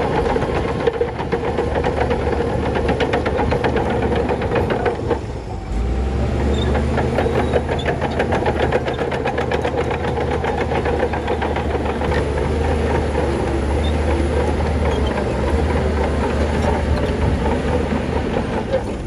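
Heavy diesel earthmoving machinery, a bulldozer at work, running steadily with a fast, even clatter. The sound dips briefly about five seconds in, then a deeper drone comes in.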